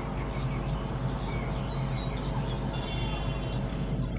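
Steady low rumble of a diesel-hauled passenger train receding down the track, with a constant drone underneath. Birds chirp over it.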